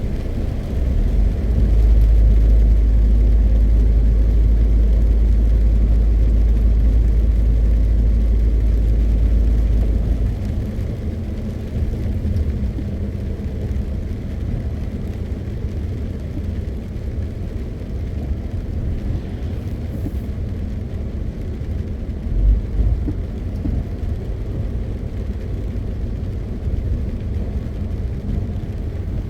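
MAN TGX 520 truck's six-cylinder diesel and tyres on the road while driving, a steady low drone. A heavy deep rumble dominates for roughly the first ten seconds, then eases to a lighter drone, with one brief low bump a little past twenty seconds.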